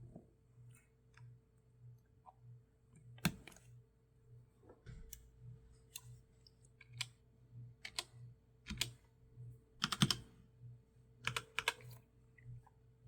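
Sparse, irregular computer mouse clicks and keystrokes, some in quick pairs, over a faint steady hum.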